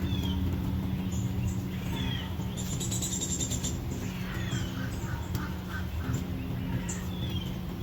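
Wild birds chirping: short falling whistled notes every few seconds, a fast high trill about three seconds in, and a quick run of short notes a little later, over a steady low hum.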